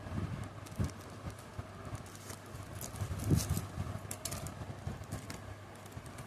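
Hands opening a plant parcel: irregular rustling and crinkling of the packing material, with scattered soft knocks and clicks as it is handled.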